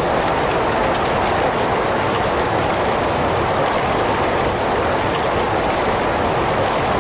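Heavy rain falling steadily, an even unbroken hiss of downpour with no separate drops or thunder standing out.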